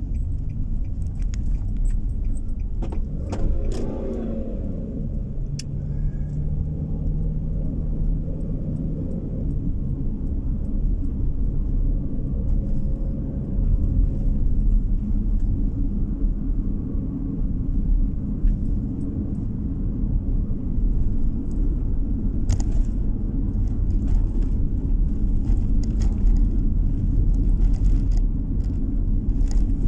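Car driving on the road, its tyre and engine noise a steady low rumble, with scattered small clicks and rattles. A few seconds in, a tone drops in pitch.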